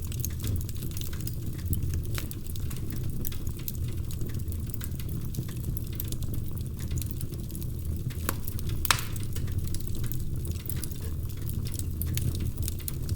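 Wood fire crackling in a fireplace: a steady low rumble of burning logs with many small, irregular snaps and pops, and one sharper pop about nine seconds in.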